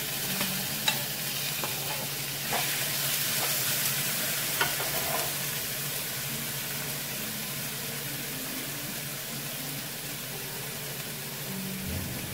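Blended ingredient paste sizzling steadily in hot oil in a nonstick pan as it is sautéed. A plastic spatula clicks and scrapes against the pan a few times in the first five seconds.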